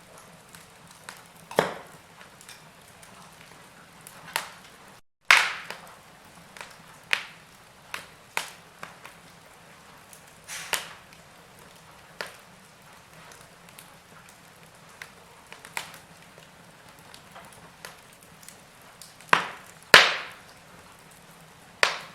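Logs burning in a fireplace, crackling with irregular sharp pops every second or two over a faint steady hiss; the loudest pops come near the end. The sound cuts out for an instant about five seconds in.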